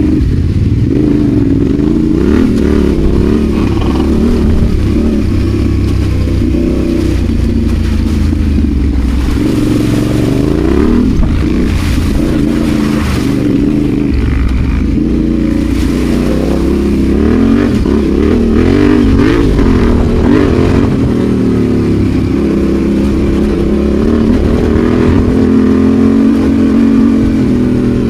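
Adventure motorcycle engine running on the move, its pitch rising and falling over and over as the throttle is opened and closed.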